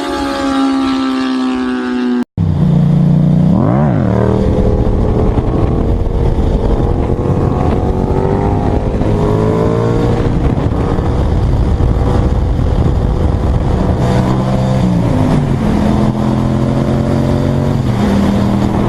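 A motorcycle engine with its pitch falling steadily, cut off abruptly about two seconds in. Then a motorcycle engine running steadily at a lower pitch, with one quick rev up and back down about four seconds in and a few smaller rises and dips in engine speed later.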